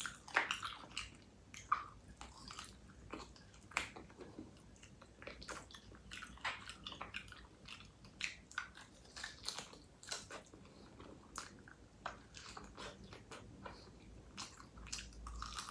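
Close-up mouth sounds of biting and chewing on pork knuckle held in the fingers, gnawing skin and cartilage off the hoof bone: many short, irregular clicks and smacks.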